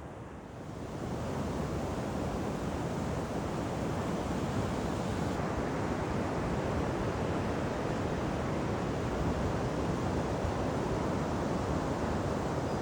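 Ocean surf washing steadily, with wind on the microphone; the noise swells up about a second in and then holds steady.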